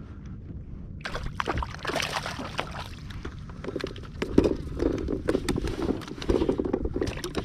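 Water splashing and sloshing against a kayak, beginning about a second in, with many small knocks and clicks of handling on board.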